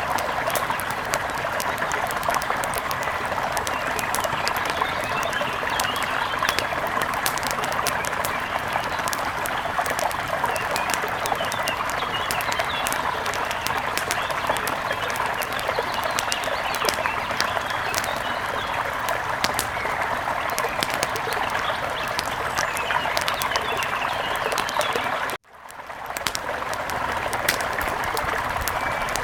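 Steady rush of a mountain river with small forest birds chirping over it and the sharp crackle of a wood fire throughout. About 25 seconds in, everything cuts out for an instant and fades back in.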